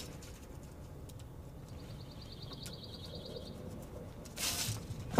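A bird's rapid trill, about ten notes a second, lasting about two seconds in the middle, over a quiet background. Near the end comes a short scratchy rustle, louder than the trill.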